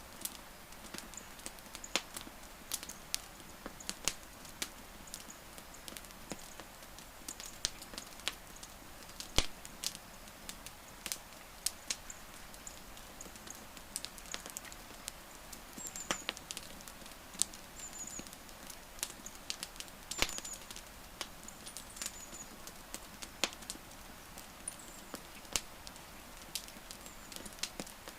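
Wood campfire crackling, with irregular sharp pops and snaps of varying strength over a soft steady hiss. A few faint, short high chirps come in during the second half.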